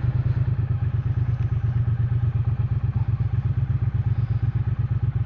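Triumph Speed Twin 900's parallel-twin engine idling steadily, with a low, rapid, even pulse.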